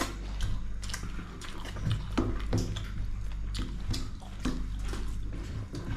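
Close-up eating sounds of rice with goat meat curry: wet chewing with many short, irregular mouth and utensil clicks.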